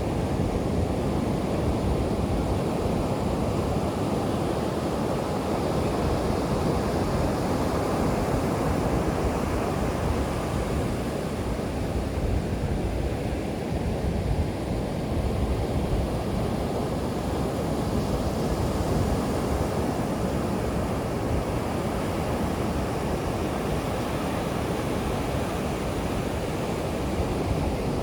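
Ocean surf washing onto a sandy beach: a steady rush of breaking waves, with some wind on the microphone.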